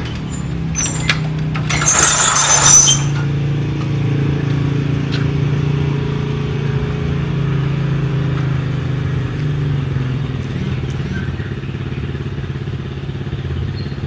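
Modenas Dinamik 120's single-cylinder four-stroke engine idling steadily while being warmed up. Within the first three seconds come two short, loud rattling clatters.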